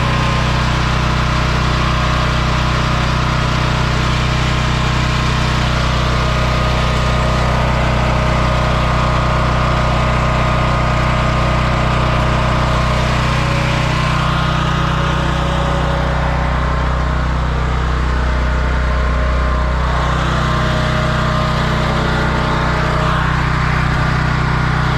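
Propane-fuelled portable generator running steadily, its engine a little bit noisy.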